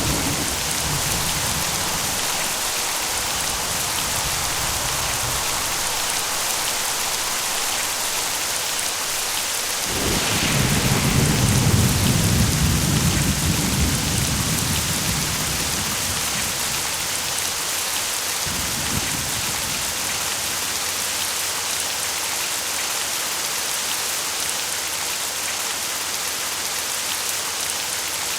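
Steady rain in a thunderstorm. A rumble of thunder dies away at the start; about ten seconds in a sudden thunderclap rolls on for several seconds, and a weaker roll of thunder follows later.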